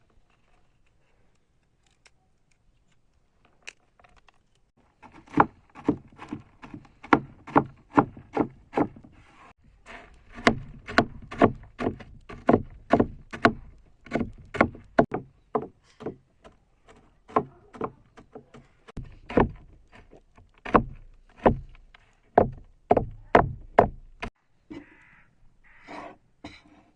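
A long series of sharp knocking blows, about two a second, starting about five seconds in and stopping a few seconds before the end.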